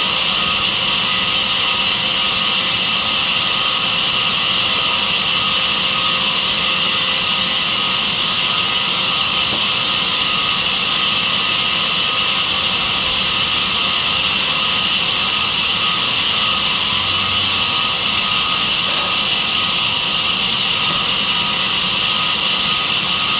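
Sawmill saw machine running steadily, a loud, even hiss and whine that does not change.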